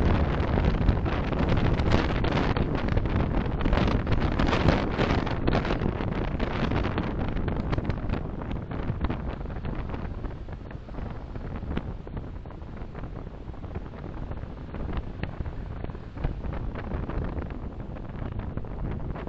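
Steady road and wind noise from a moving car, louder for the first few seconds and then easing off a little.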